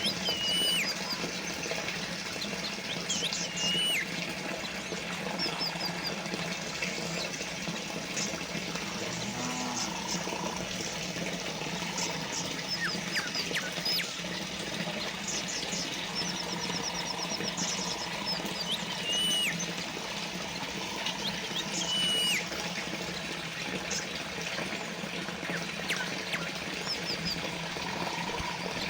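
Small fountain trickling steadily, with small birds chirping now and then over it: short high calls that fall in pitch and quick runs of rapid high notes.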